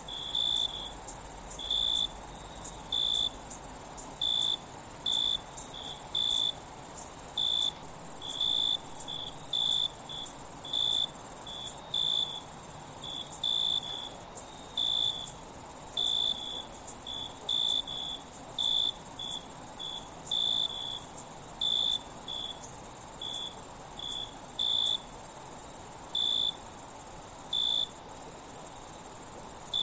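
Night insect chorus: a steady high-pitched insect trill with a cricket giving short chirps, roughly one or two a second, over it. The sound briefly dips in loudness a few times.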